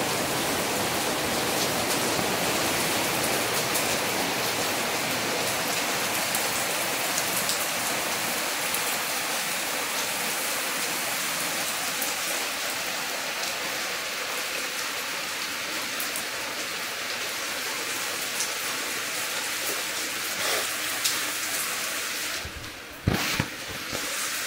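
Heavy rain falling steadily on a paved street and parked cars. Near the end the rain noise drops and a few sharp knocks sound.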